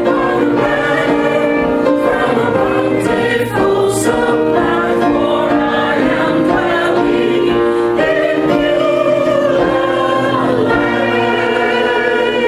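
Church choir singing, many voices holding and moving between sustained notes together.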